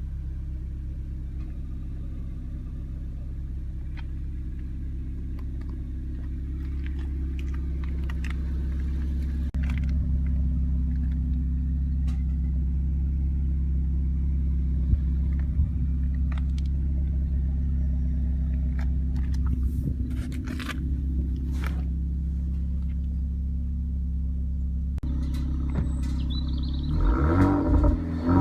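Renault Megane RS turbocharged four-cylinder engine idling steadily, heard from outside the car. Its sound steps up a little about a third of the way in and again near the end. In the last second or so the engine is blipped and begins to rev up and down.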